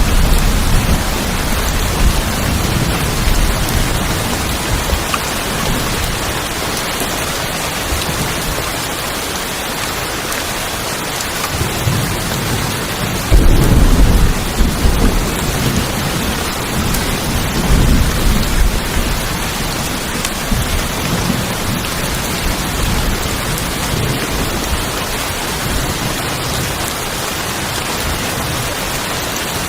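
Steady heavy rain drumming on a tin roof, with rolls of thunder: rumbling at the start, a sudden loud crack-and-rumble about halfway through that fades over a few seconds, and a smaller rumble soon after.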